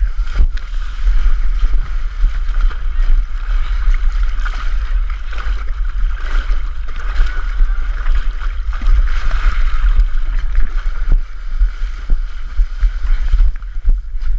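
Wind rumbling on the microphone over a steady rushing noise, with scattered knocks.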